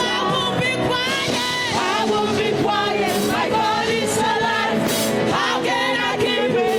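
Live gospel singing over full band accompaniment, a lead voice carrying a melody with bending, held notes.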